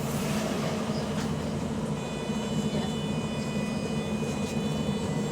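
Wright-bodied Volvo double-decker bus engine heard from on board, running with a steady drone, on a bus with an exhaust leak. A high, thin whine of several steady tones comes in about two seconds in and stops near the end.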